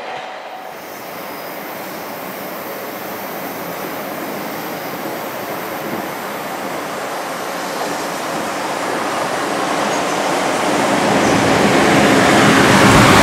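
A JR Freight EF210 electric locomotive and its container wagons approaching along the station track, the rolling noise growing steadily louder as the train nears.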